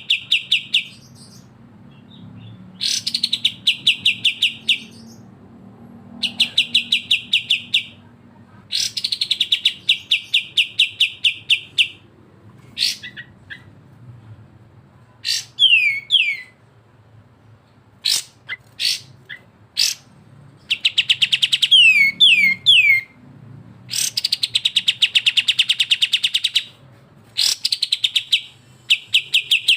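Songbirds, kapas tembak and cucak jenggot bulbuls, giving rapid rattling trills (besetan), each a second or two of fast repeated notes, again and again with short pauses between. A few quick falling whistled notes come in between the trills.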